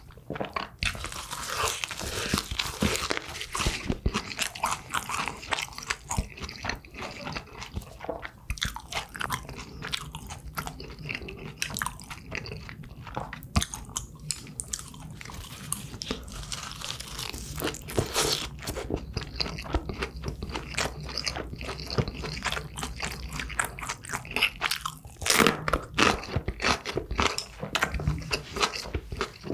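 A person chewing and biting food, with many short crisp crunches throughout and a few louder crunches about two-thirds of the way through and near the end.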